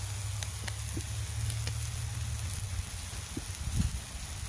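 Thin-sliced pork frying in a pan over a campfire: a steady sizzle with a few sharp pops and crackles.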